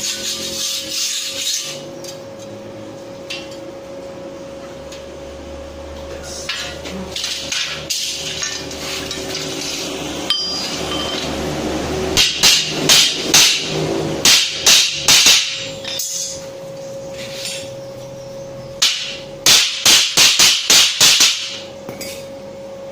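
Hammer striking steel plate in two quick runs of blows, about eight and then about seven, over a steady low hum.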